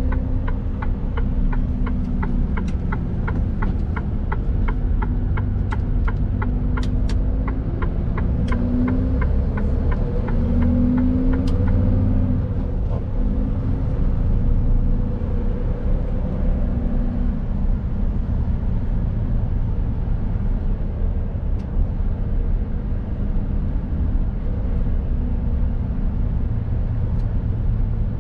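Mercedes Actros truck's diesel engine running under way, a steady low rumble whose pitch rises and shifts about a third of the way in. A fast, regular ticking sounds over it for the first twelve seconds or so, then stops.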